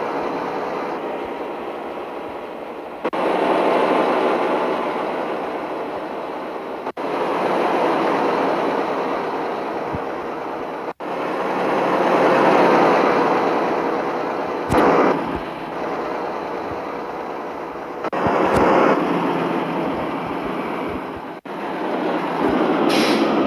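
Fuso truck with an empty cargo bed on the move: steady engine and road noise with a few sharp knocks. It comes as short spliced clips that change abruptly every few seconds.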